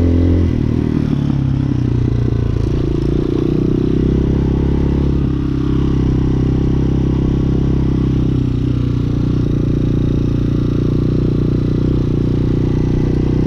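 Hawk 250 single-cylinder dirt bike engine running under way; its pitch drops about half a second in, then holds fairly steady.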